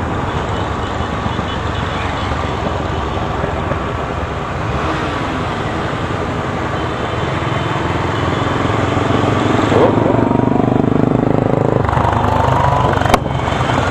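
Motorcycle engines running on the road in a group ride, with steady road noise; the engine note changes about ten seconds in, and a single sharp click comes near the end.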